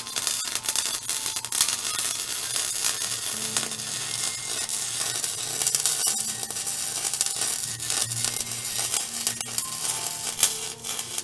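Wire-feed welder arc crackling and sizzling steadily while a tooth is welded onto a steel excavator bucket. Quiet background music runs underneath.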